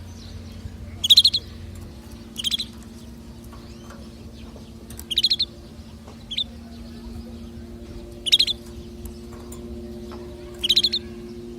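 Domestic canary singing in short bursts of rapid high trills, about six phrases a second or two apart, over a steady low hum.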